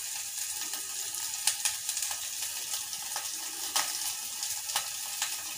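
Oil sizzling in a pan with a sautéing tempering of tomatoes, green chillies and spices: a steady hiss with scattered small crackles.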